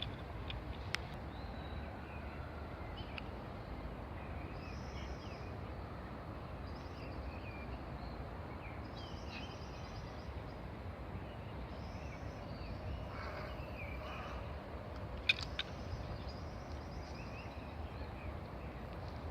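Night birds giving faint, scattered short high chirps over a steady low rumble of background noise, with a few sharp clicks, one about a second in and a louder one about fifteen seconds in.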